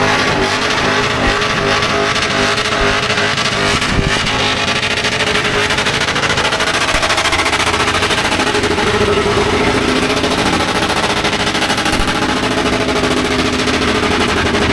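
Car engine held at high revs during a burnout, steady and loud, with crackling over a dense hiss of spinning tyres.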